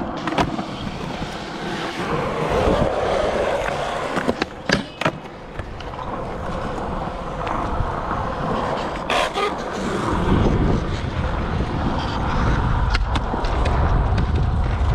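Skateboard wheels rolling on skatepark concrete, with several sharp clacks of the board from pops and landings; the rolling grows heavier and lower after about ten seconds.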